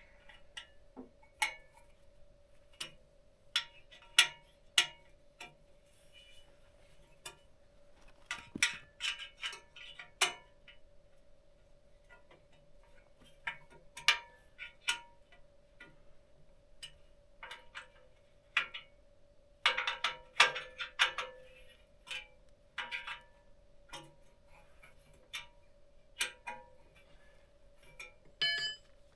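Scattered clicks, taps and small clanks of a guide rail and its fittings being handled and set in place on a log for a chainsaw mill, with short flurries of rattling, over a faint steady hum.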